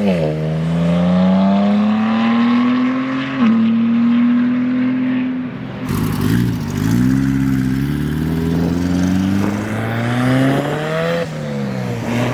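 Performance car engines accelerating hard. The pitch climbs and drops sharply at each upshift, and a second car's engine takes over about halfway through.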